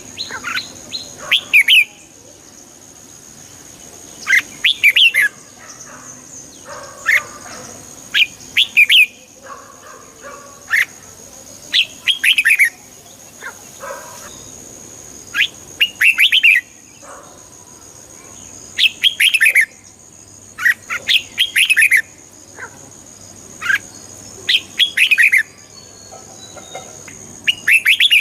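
Red-whiskered bulbul singing: short, bright warbled phrases repeated every second or few, with brief pauses between them.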